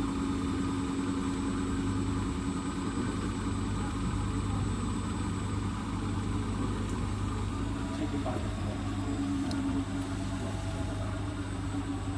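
Hotpoint WT761 Ultima washing machine running with a steady mechanical hum.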